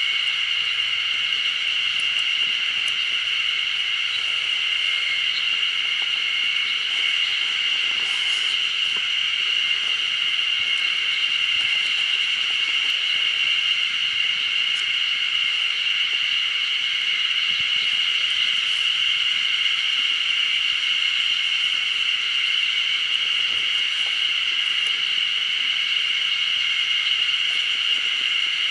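Steady chorus of insects in woodland, one continuous high-pitched buzz that holds level throughout, with a few faint ticks over it.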